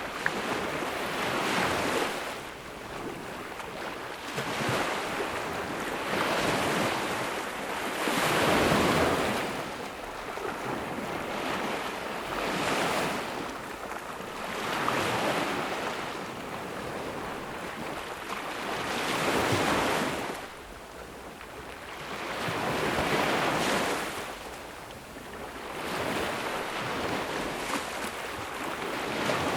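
Ocean waves breaking on a beach, the surf swelling and falling back every two to four seconds.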